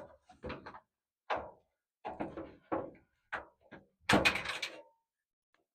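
A series of knocks and clanks from the sheet-metal parts of a gas clothes dryer being handled during disassembly. A louder, longer clatter comes about four seconds in.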